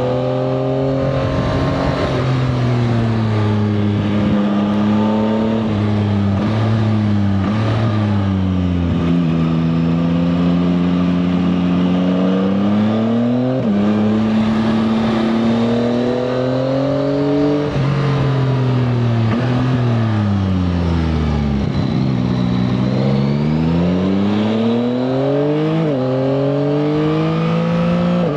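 Yamaha Tracer 9 GT+'s 890 cc inline three-cylinder engine under way, its pitch falling as it slows and rising as it pulls, with sudden jumps in pitch at about 8, 14, 18 and 26 seconds in, as at downshifts. It drops to its lowest just past the 21-second mark, then climbs again.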